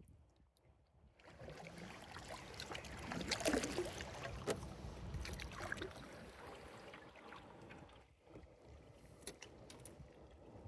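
Water splashing and sloshing around a canoe as it is paddled, swelling to its loudest about three to four seconds in and then fading, with a few sharp knocks from the paddle or hull.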